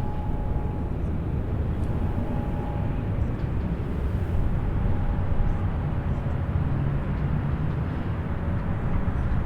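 Distant highway traffic: a steady low rumble of many vehicles with a faint hum of engine and tyre tones.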